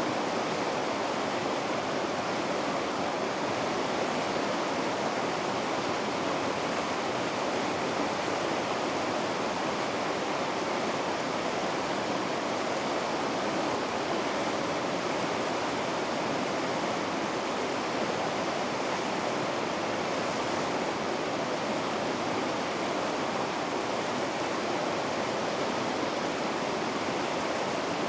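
River rapids: fast water running over rocks in a steady, unbroken rush with no change throughout.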